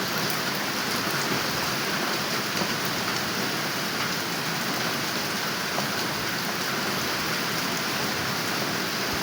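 Steady rain falling, a dense even hiss with scattered individual drops.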